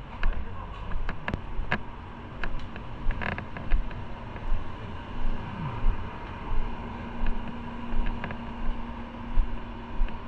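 Motorcycle running, with a low rumble and gusts of wind on the microphone, a few sharp clicks in the first three seconds, and a steady low engine note settling in a little past the middle.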